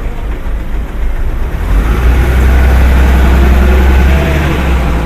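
A motor vehicle's engine rumbles close by in street traffic, swelling about two seconds in and easing off near the end.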